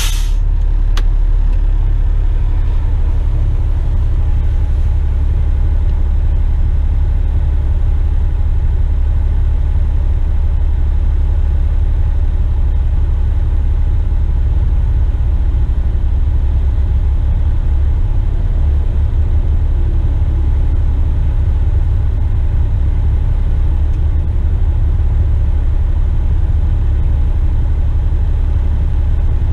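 Western Star tipper truck's diesel engine running steadily, a deep low rumble. A short sharp hiss sounds right at the start.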